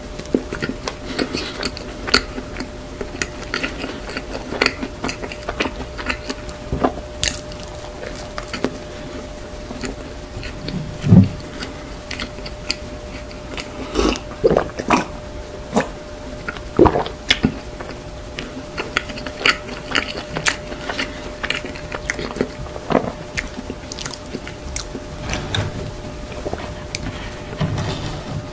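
Close-miked chewing of soft cream-filled bread, with wet mouth clicks and smacks throughout. About halfway through there are a few gulps of milk.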